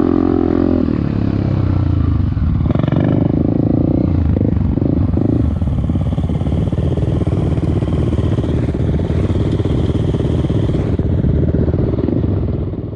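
Off-road motorcycle engine running hard, its pitch rising and falling with the throttle, then dropping away suddenly at the very end.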